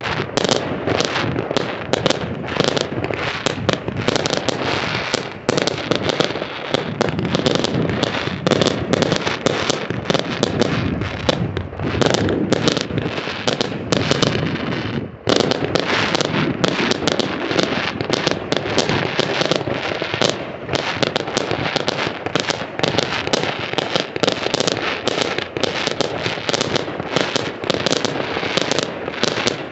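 Fireworks going off in a dense, continuous barrage of bangs and crackles, easing briefly about fifteen seconds in before carrying on.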